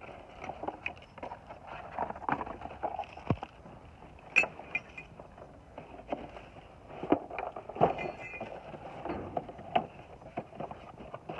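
Metal door-lock parts and hardware being rummaged through and handled: irregular clinks, knocks and rattles, the sharpest about four seconds in.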